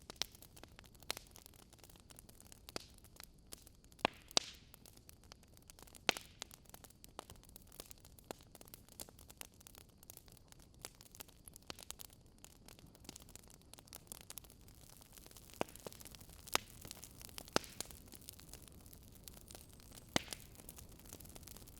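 Campfire burning: wood crackling and popping at irregular intervals over a low steady hiss, with a few louder sharp pops.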